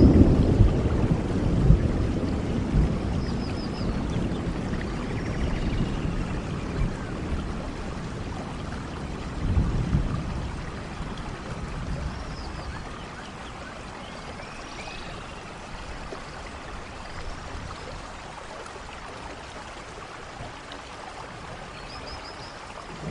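Steady rain falling, with thunder rumbling away at the start and a second low rumble of thunder about ten seconds in; after that the rain alone goes on, growing softer toward the end.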